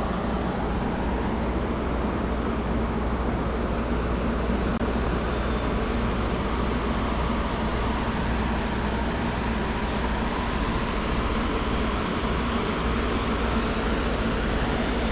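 Steady ventilation noise: an even rushing with a low hum underneath, unchanging throughout.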